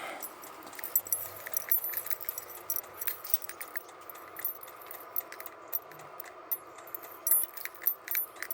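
Irregular light metallic jangling and clicking over the steady hum of a diesel air heater running.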